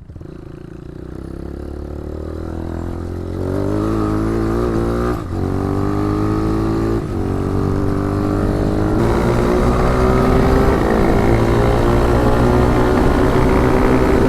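Hawk 250 dirt bike's single-cylinder four-stroke engine accelerating, its pitch climbing with two brief dips about five and seven seconds in as it shifts up, then holding steady at speed.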